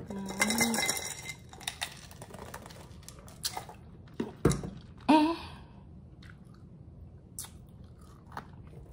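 A person chewing food with the mouth closed, with scattered small wet mouth clicks. A short hummed "mm" comes at the start and two brief vocal sounds come about halfway through.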